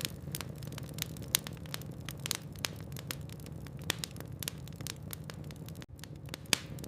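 Logs burning in a fireplace: irregular sharp crackles and pops, several a second, over a steady low rumble of the fire. The sound drops out for an instant about a second before the end.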